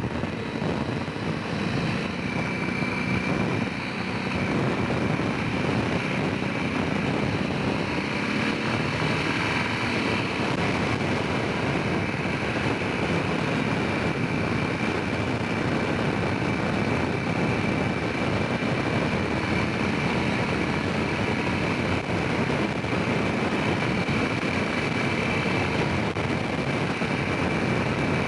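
Honda Rincon 650 ATV's single-cylinder four-stroke engine running steadily under way, with a steady high whine above the engine noise.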